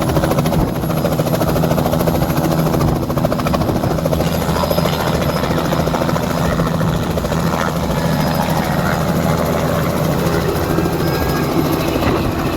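Helicopter running close by: a steady, loud, rapid rotor chop over a constant engine hum.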